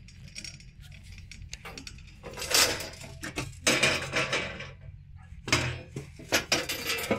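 Metal clattering and scraping: the chimney cap's sheet metal and iron prop rod knocking and rattling as they are handled, in a few short bouts of rattles and knocks.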